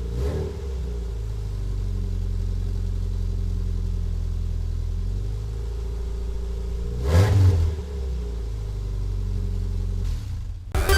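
Subaru Legacy wagon engine idling with its exhaust system almost completely fallen off, a steady low drone, with one brief rev about seven seconds in that drops straight back to idle.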